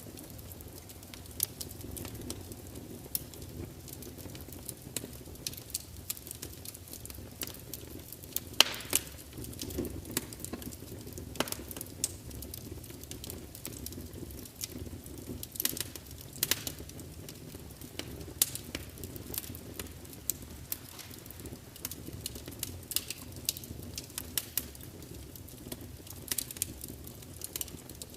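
Wood fire burning in a large fireplace: a steady low rumble of flames with frequent irregular crackles and pops from the logs, a few sharper pops standing out.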